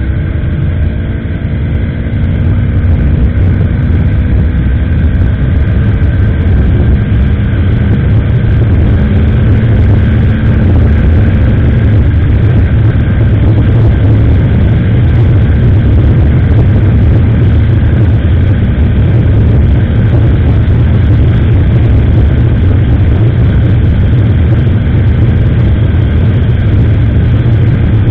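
Motorcycle riding on the road: the engine rises slowly in pitch as it picks up speed over the first ten seconds or so, then a loud, steady wind rush on the action-camera microphone covers it.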